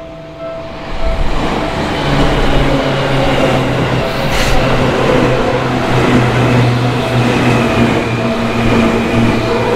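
Yellow Seibu electric commuter train passing through a level crossing: the crossing warning bell's repeated tone at the start, then the train arrives about a second in and its running noise and a steady low motor hum cover it. A brief hiss about four seconds in.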